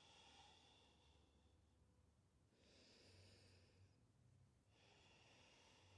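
Faint, slow human breathing in near silence: three soft breaths about two seconds apart.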